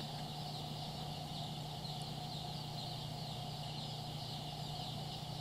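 A crowd of Turken (naked neck) baby chicks peeping continuously, over a steady low hum.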